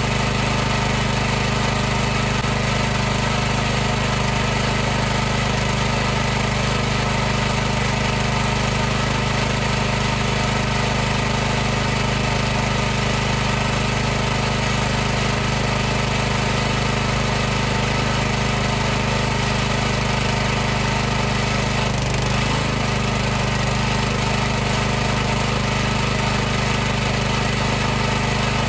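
High-pressure washer's pump and motor running steadily with a constant low hum over a hissing mechanical noise, with a brief wobble in pitch about three-quarters of the way in.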